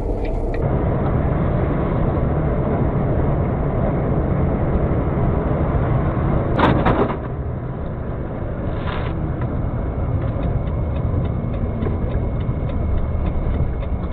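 Heavy vehicle engine running steadily, loud and low-pitched, with a short burst of noise about seven seconds in and a weaker one about two seconds later.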